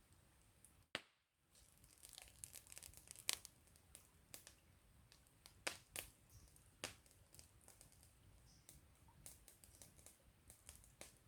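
Wood campfire crackling, with scattered sharp pops and snaps, the loudest a little over three seconds in and a cluster around six to seven seconds. The sound drops out briefly about a second in.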